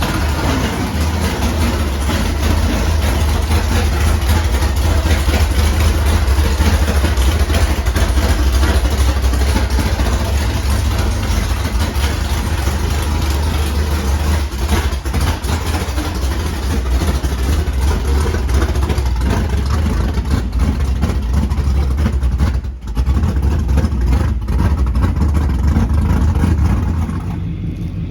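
An engine running loudly and steadily with a deep rumble. Its level dips briefly about 23 seconds in and drops a little near the end.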